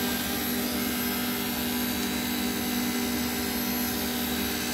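A 48 V DC brushless compressor and its two cooling fans running under load: a steady drone with several constant pitched tones over an even hiss.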